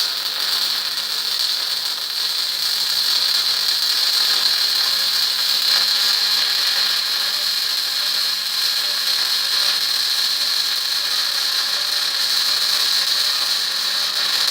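MIG welder arc running one continuous bead: a steady, even sizzle that stops abruptly right at the end.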